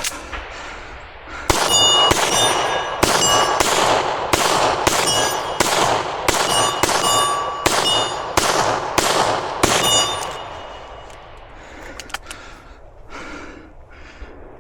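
A steady string of about eighteen gunshots, roughly two a second, each hit followed by the short ring of a steel target. The string stops about ten seconds in, and a few fainter knocks follow near the end.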